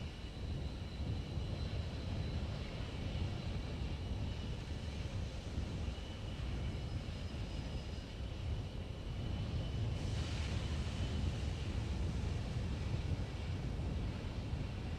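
Steady low wind rumble on an outdoor microphone, with faint steady high whines. A hiss comes in suddenly about ten seconds in.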